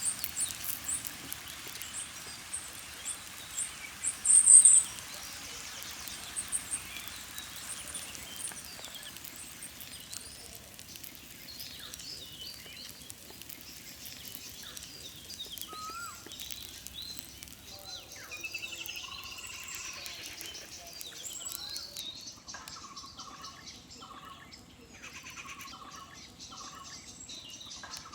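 Wild birds calling and chirping over a steady background noise, with a loud, very high-pitched call about four to five seconds in. Later, a run of short notes repeats many times.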